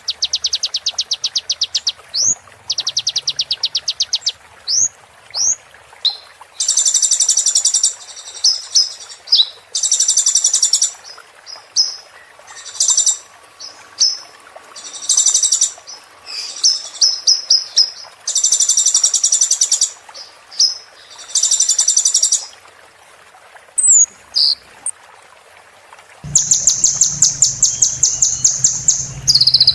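Small songbird, a sunbird (kolibri), singing high-pitched phrases of very rapid trills and short chirps, with brief pauses between phrases. Near the end a low steady hum joins under a long, fast trill.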